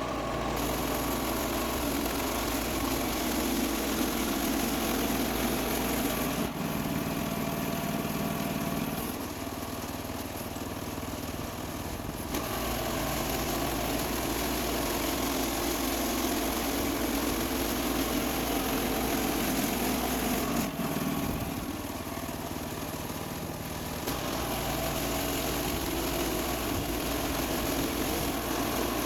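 Woodland Mills HM126 portable bandsaw sawmill's gasoline engine running steadily. The sound eases off twice for about three seconds, roughly a third and two-thirds of the way through.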